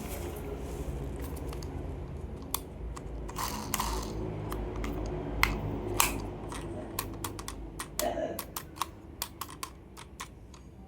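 Irregular sharp clicks and taps of toy cars and their plastic packaging being handled, growing more frequent in the second half, with a brief rustle about eight seconds in.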